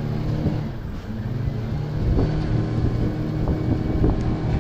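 An engine running steadily at low revs, with a few faint knocks.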